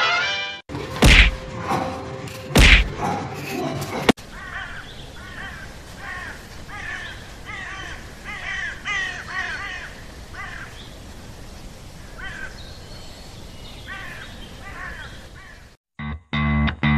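A bird calling over and over in short, quick notes, after two heavy thumps near the start.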